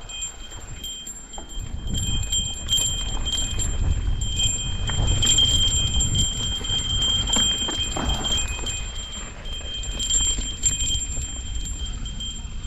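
Mountain bike bumping and rattling over a rough, wet trail, with knocks and a low rumble that swell and fade, under a steady high-pitched whine.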